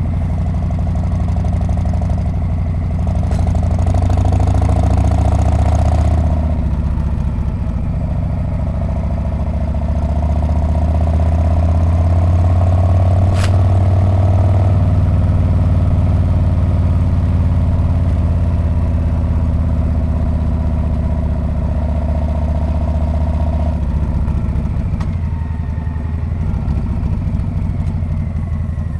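Harley-Davidson Street Bob's air-cooled V-twin running under way through its muffler, the note swelling under throttle a few seconds in and again around the middle, then easing off about three-quarters of the way through. A single sharp click near the middle.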